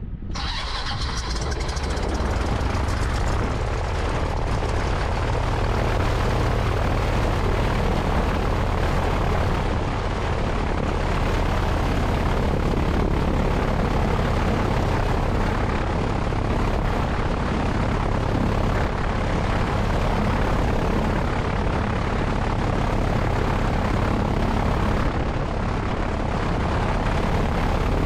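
Cessna 172's piston engine and propeller running steadily, mixed with wind rushing over the wing-mounted microphone; the sound grows louder over the first few seconds, then holds.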